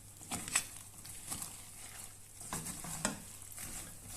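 Puffed rice being stirred into melted chocolate in a pan, the utensil scraping and rustling in short, uneven strokes.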